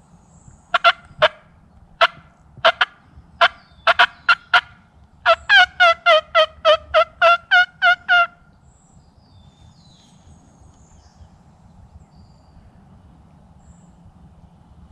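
Hen turkey calling: a string of sharp, irregular clucks, then a run of about a dozen yelps at about four a second that stops about eight seconds in.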